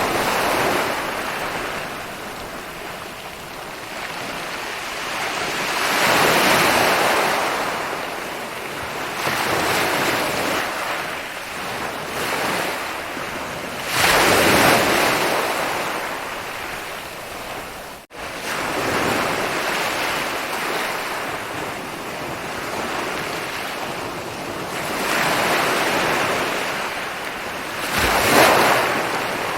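Ocean waves rolling in, the surf swelling and breaking every few seconds over a steady wash. The sound cuts out for an instant about halfway through.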